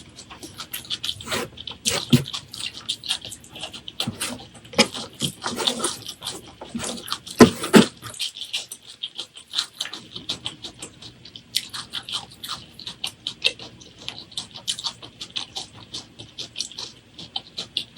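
Close-miked eating: chewing with a rapid run of wet, clicky mouth sounds. A few heavier bites come about two seconds in and again around seven to eight seconds.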